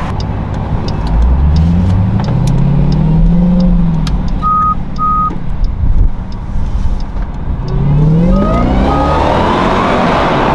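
2023 Dodge Durango SRT Hellcat's supercharged V8 accelerating twice through its stock exhaust, heard from the cabin with the window down. The second pull brings a rising supercharger whine near the end. A pair of short electronic beeps sounds around the middle and another pair during the second pull.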